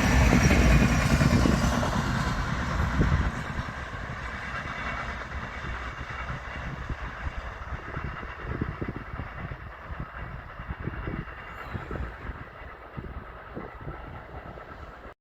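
A train passing close by: a loud rumble that drops off about three seconds in, then fades away as the train recedes, with the wheels clattering over the rail joints.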